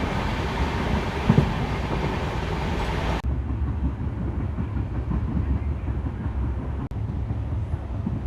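Express passenger train running at speed, heard from on board: a steady low rumble of wheels on the track with a hiss of rushing air above it. The hiss cuts off suddenly about three seconds in, leaving the lower rumble.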